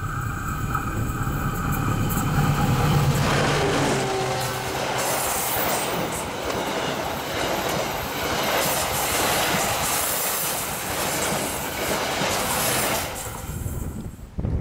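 Passenger train passing close by: a diesel locomotive's engine rising over the first few seconds, then the steady loud rush of wheels and carriages going past, dropping away near the end.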